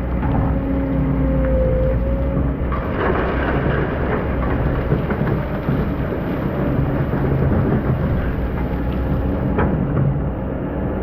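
Hydraulic excavator's diesel engine running steadily under load while the bucket digs through hard-packed old sand, the grinding noise growing rougher from about three seconds in, with a few sharp knocks.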